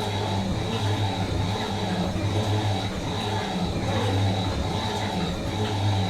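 Fisher & Paykel MW512 washing machine running, its low motor hum swelling and fading every second or so, with a faint steady high whine above it.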